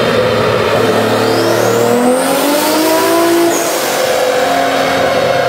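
Mk4 Toyota Supra's inline-six engine running hard on a chassis dyno. The revs climb over about two seconds with a high whine rising alongside, then drop back around the middle and the engine keeps running under load.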